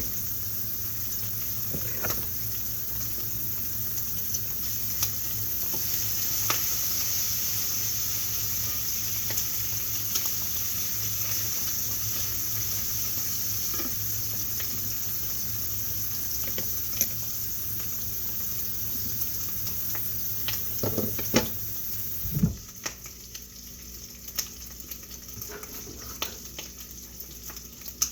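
Food sizzling and frying in a pan, with light clicks and scrapes of a utensil stirring or turning it. Near the end a knock comes and the sizzling drops away to a much quieter level.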